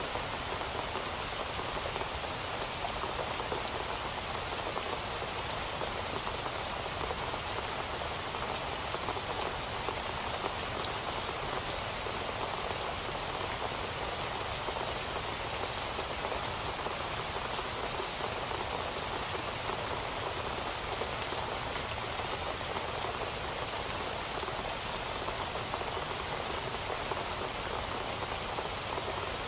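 Steady rain falling, an even hiss of many close drops hitting a surface, with no thunder.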